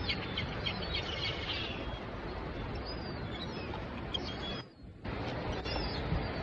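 Small birds chirping in short high tweets, mostly in the first two seconds and again near the end, over a steady rushing outdoor noise. The noise cuts out briefly just before the five-second mark.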